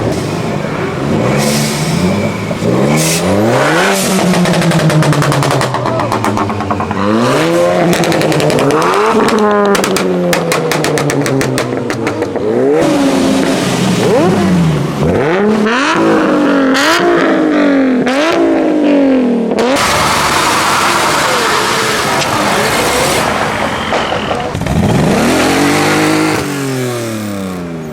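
Modified car engines revving hard over and over, each rev rising sharply in pitch and falling away, with quicker blips in the middle and a burst of rapid crackling around ten seconds in.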